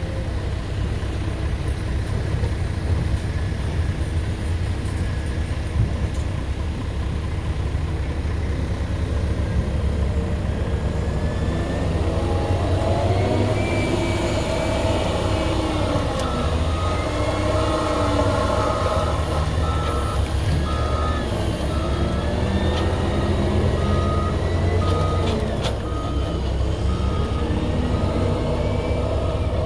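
Heavy diesel engine of a CAT 120M2 motor grader running under load, with higher whines rising and falling from about halfway. A reversing alarm beeps about once a second through the second half.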